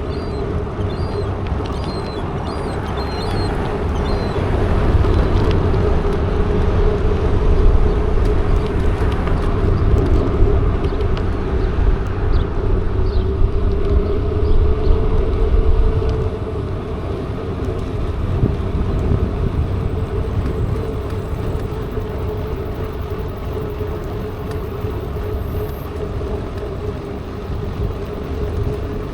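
Riding a mountain bike: a steady tyre hum that wavers a little with speed, over wind noise on the microphone. A bird chirps a few times in the first three seconds.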